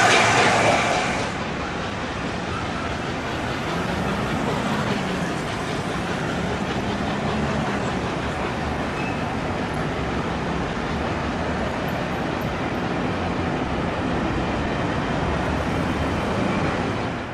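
A passing train rumbling steadily across a railway bridge, louder in the first second, mixed with road traffic below.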